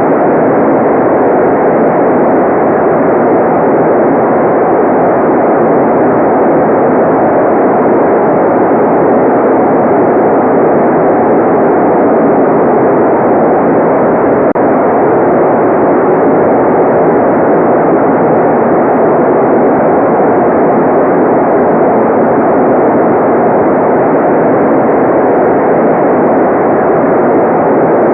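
Continuous white noise, loud and perfectly steady: a dull, even rushing hiss with no treble and no changes.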